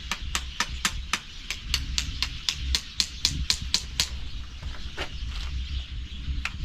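A rapid, even run of sharp clicks, about four a second for about four seconds, then a few scattered clicks, over a steady low rumble.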